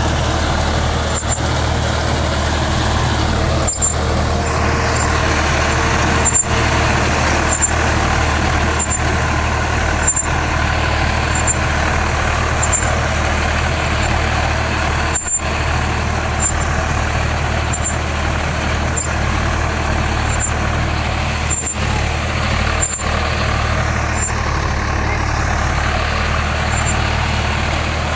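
Swaraj 855 tractor's diesel engine running steadily with a deep rumble, broken by a few brief ticks here and there.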